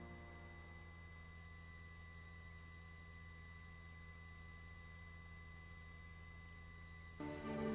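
Faint steady hum with a few thin high steady tones in a gap between pieces of music; music starts again near the end.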